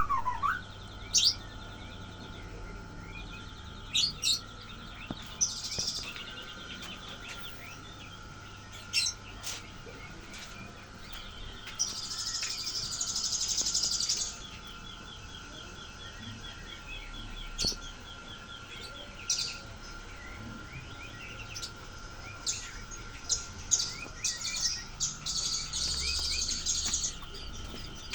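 Murai birds chirping and calling: sharp single chirps every few seconds, stretches of rapid rattling trills, and a few longer harsh bursts of chatter, over a faint steady high tone.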